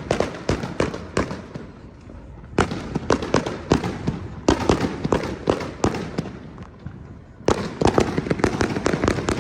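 Firecrackers going off in rapid strings of sharp bangs, coming in several crackling bursts separated by short lulls.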